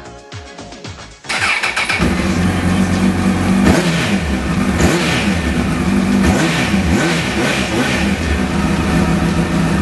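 Honda CBR1000RR's 998 cc inline-four engine running through an aftermarket exhaust. It cuts in loud about a second in and is revved up and down repeatedly. Music is heard just before the engine comes in.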